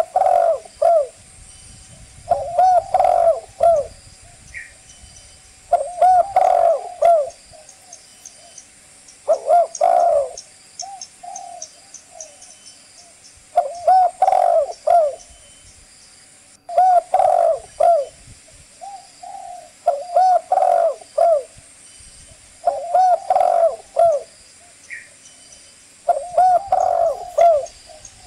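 Spotted dove (cu gáy) cooing: short phrases of several coos repeating about every three to four seconds.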